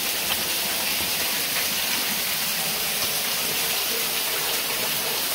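Waterfall's falling water making a steady, even hiss.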